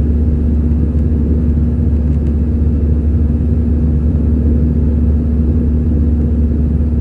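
Steady cabin noise of an Airbus A320-214 in flight: a loud, even low rumble from its CFM56 turbofan engines and the airflow, with a steady hum underneath.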